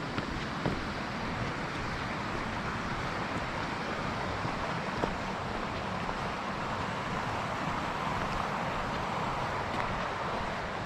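Steady rushing of falling water from a waterfall, an even unbroken hiss, with a few faint clicks.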